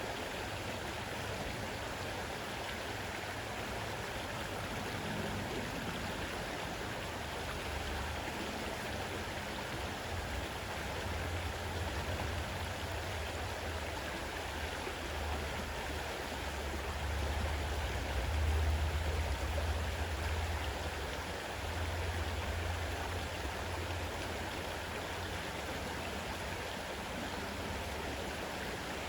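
Fast-running river water rushing steadily, with a deep rumble underneath that swells in the middle and eases off again.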